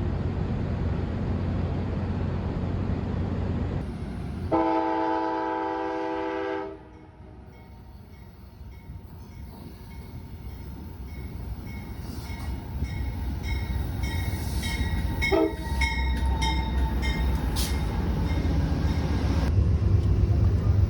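Train rumbling steadily, with a train horn sounding one blast of about two seconds, several tones together, around four to five seconds in. After a sudden drop the train rumble builds again, with light rhythmic clicking.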